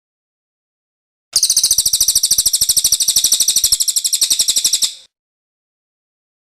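Cililin songbird's rapid, high-pitched trill of evenly repeated notes, about ten a second, starting about a second in and cutting off suddenly after nearly four seconds.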